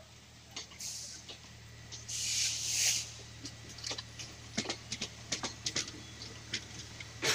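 Indian Railways passenger coaches rolling past, their wheels clacking irregularly over rail joints from about three and a half seconds in, over a steady low rumble. A loud burst of hiss comes about two seconds in.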